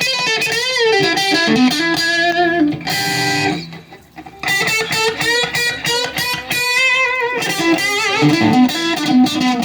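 Electric guitar, a Telecaster-style guitar, played through a small single-ended tube amp: a home-built Fender 5F2-A clone with a 12AX7 preamp tube and an EL84 output tube, running at about 3.5 watts. Single-note lead phrases with wavering vibrato, with a short break about three and a half seconds in before the playing resumes.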